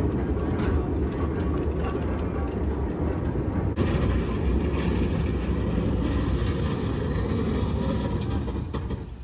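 Southern Railway FP7 diesel-electric locomotive (EMD 16-cylinder 567 engine) running with its train: a steady low engine rumble with scattered rail clicks, dropping away sharply near the end.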